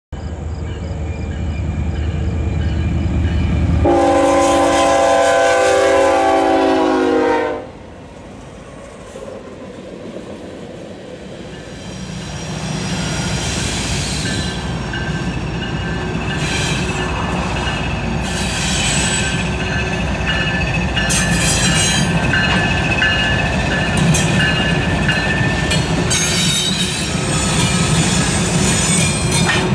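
Diesel freight locomotives approaching with engines running, then a loud multi-tone air horn sounding for about three and a half seconds and cutting off sharply. After a quieter stretch, a Norfolk Southern freight led by GE ES44DC locomotives rolls past with a steady rumble of engines and wheels on rail, with thin wheel squeal and scattered high metallic squeaks.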